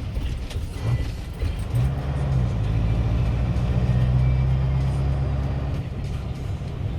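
Scania 141's 14-litre V8 turbo diesel running, heard from inside the cab. Its deep note rises about two seconds in, holds steady, and eases back near the end.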